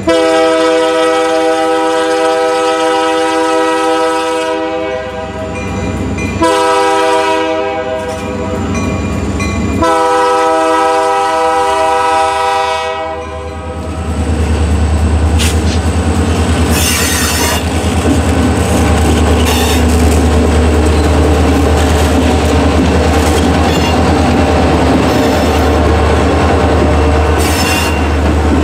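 Diesel freight locomotive's multi-chime air horn blowing for a road crossing: a long blast, a shorter one, then a final long blast that ends about 13 seconds in. The locomotive's engine then rumbles past close by, followed by the train rolling by with wheels clacking over rail joints and brief high-pitched wheel squeal.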